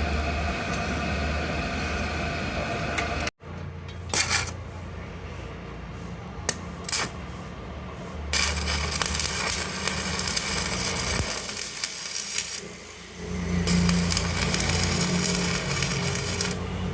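Workshop machinery running with a steady hum that cuts off abruptly about three seconds in, followed by a few sharp metallic clinks and then steady machine noise again.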